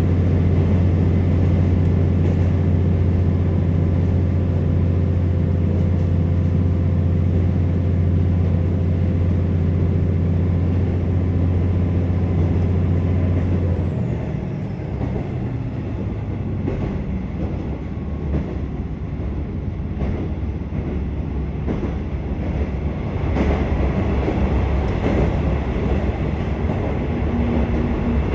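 Inside a KiHa 47 diesel railcar under way: the diesel engine drones steadily under power, then about halfway through the throttle is shut off and the car coasts, leaving the rumble of wheels on rails with scattered clicks.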